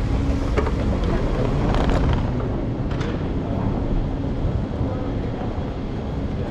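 Sydney Trains electric train running, a steady low rumble with a couple of brief sharp clicks or rattles about two and three seconds in.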